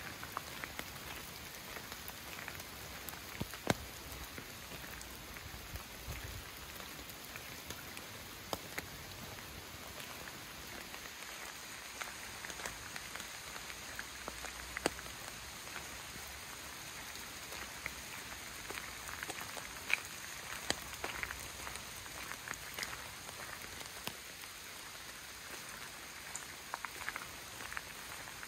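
Steady rain falling in a leafy forest, a soft even hiss with many scattered close drops ticking sharply on top.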